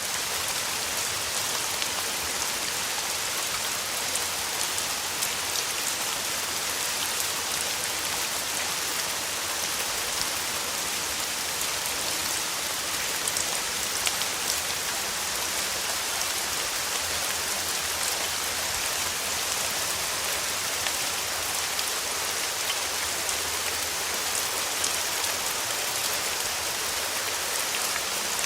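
Steady summer rain: a dense, even hiss of falling rain with many small drop ticks on a surface.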